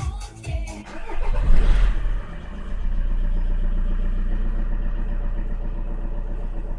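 Škoda Octavia I engine cranking and catching, loudest as it fires about one and a half seconds in, then settling into a steady idle.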